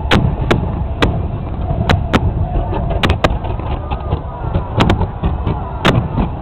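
Aerial fireworks going off: about ten sharp bangs at irregular intervals, some in quick pairs, with smaller crackles between them over a steady low rumble.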